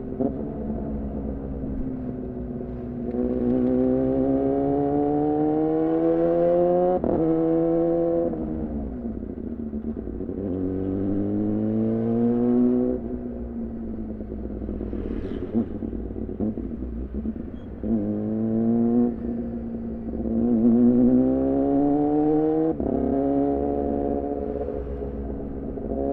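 2014 Yamaha R6 inline-four with an R9 titanium muffler and Leovince header, pulling hard through the gears: the engine note climbs, then drops sharply at each quickshifted upshift, with easing off between pulls and a short pitch fall in the middle.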